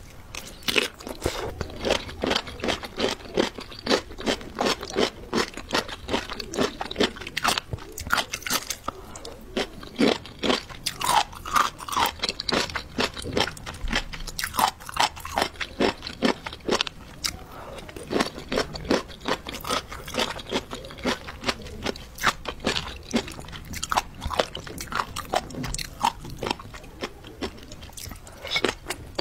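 A person chewing and biting crunchy jellyfish: a steady run of crisp crunches, several a second.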